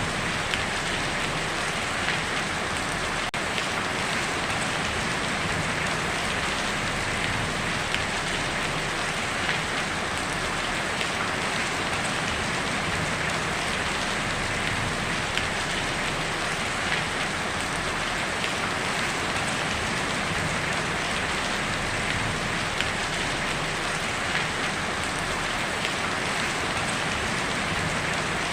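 Heavy rain falling steadily on a tin roof: a dense, even patter with small sharper drop hits scattered through it.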